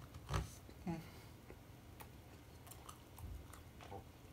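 Faint eating mouth sounds close to the microphone: a short hum about a second in, then a few light clicks and soft chewing noises.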